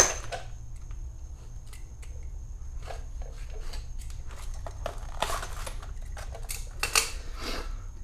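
Metal dethatcher parts clinking and knocking as they are handled during assembly, with scattered clicks, a sharp knock at the start and another louder clatter about seven seconds in.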